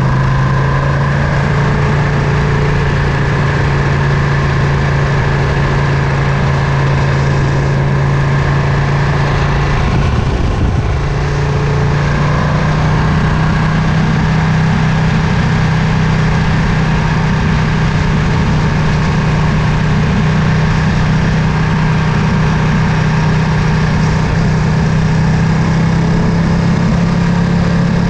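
Ducati Panigale V2's 955 cc V-twin engine and exhaust running steadily during a ride. About ten seconds in the engine note briefly breaks and dips, then settles back to a steady note that creeps slightly higher near the end.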